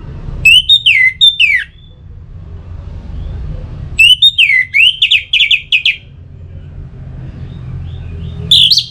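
Orange-headed thrush singing in loud whistled phrases, each of sliding notes followed by a quick run of repeated notes, three phrases a few seconds apart over a steady low background rumble.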